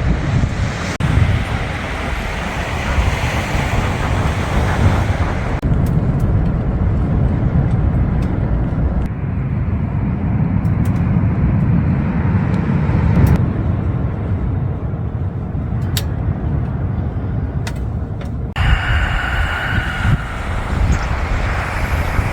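Strong wind buffeting the microphone over a steady low rumble of sea surf, with a few sharp clicks; the noise changes abruptly several times.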